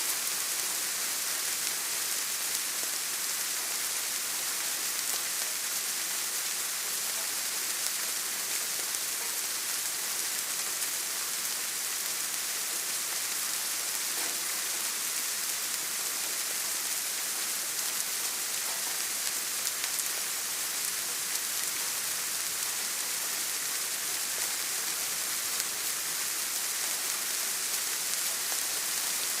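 Steady rain, an even hiss with faint ticks of individual drops here and there.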